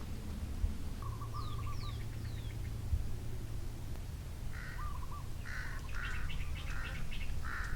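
Birds calling: a warbling phrase twice, three quick falling whistles, then a run of about five short harsh calls in the second half, over a low steady hum.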